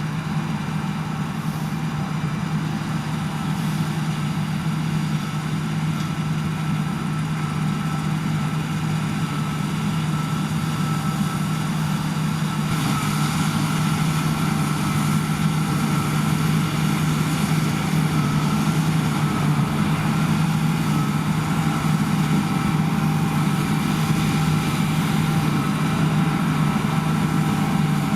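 Heavy diesel farm machinery running steadily: a constant engine drone with a steady higher whine above it, getting slightly louder about halfway through.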